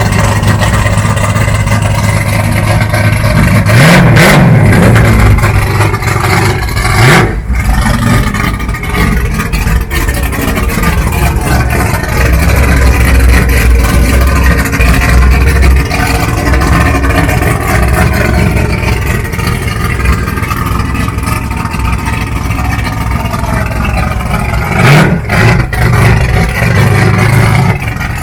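Classic car engines running loudly, with revs rising and falling about four seconds in, again around seven seconds, and once more near the end.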